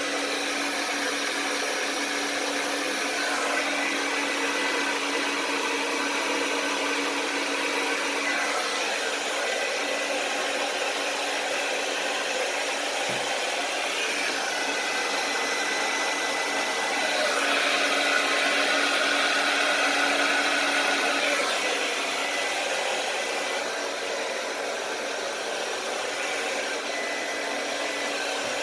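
Hair dryer running steadily with a constant motor hum, blowing air to spread poured acrylic paint across a canvas. It gets louder for a few seconds past the middle.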